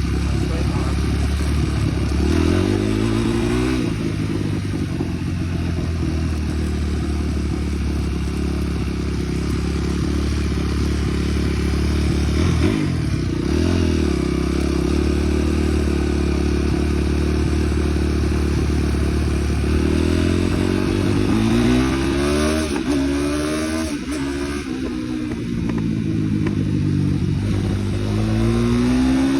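Small off-road vehicle engine under way, holding a steady pitch for long stretches and revving up in rising sweeps, several in a row near the end.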